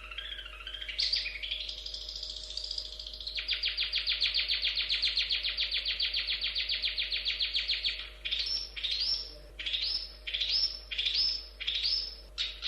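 Long-tailed shrike (cendet) singing: a wavering warble, then a fast trill of about ten notes a second, then a run of about six separate rising whistles. A faint steady hum runs underneath.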